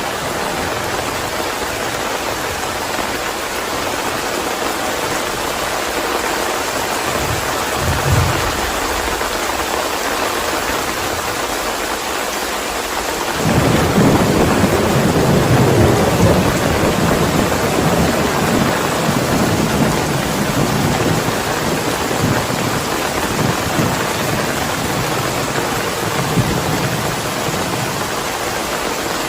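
Steady heavy rainfall hissing, with a short low thunder rumble about eight seconds in. About halfway through, a loud roll of thunder breaks in suddenly and rumbles on, slowly fading.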